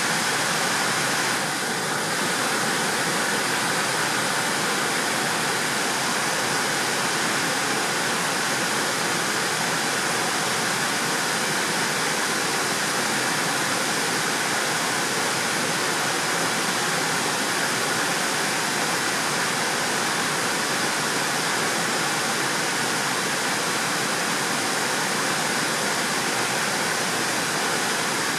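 Water pouring over a low river weir: a steady, even rush of falling water.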